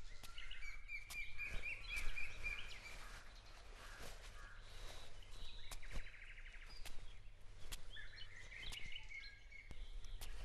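Birds chirping and twittering, with one quick trill about five seconds in, and a few sharp ticks here and there.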